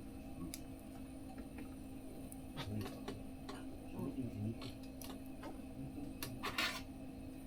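Wood fire crackling in a small mesh fire stove: scattered sharp clicks and pops, with a denser burst of crackles about six and a half seconds in, over a steady low hum.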